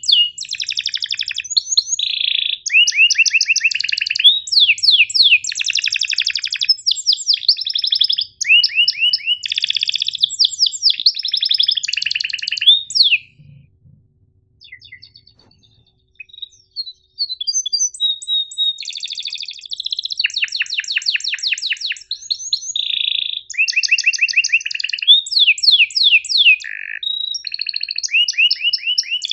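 Domestic canary singing a long song of fast rolling trills and sharp chirps, pausing for a few seconds midway.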